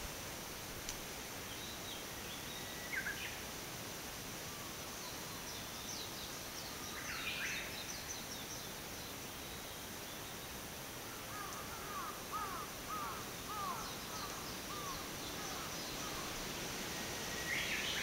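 Wild forest birds calling at intervals: a few short high calls, and in the second half a quick run of short falling notes lasting a few seconds, over a steady hiss of wind in the trees.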